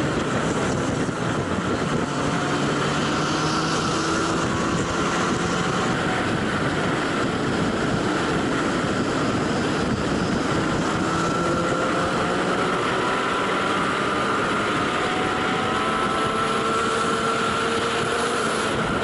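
Motorcycle engines at high speed, the pitch climbing slowly with each gear and stepping between gears, over a steady rushing noise.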